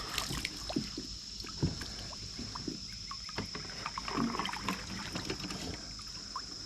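Scattered light knocks and taps of handling aboard a kayak on the water, with faint water trickle, over a steady high-pitched whine in the background.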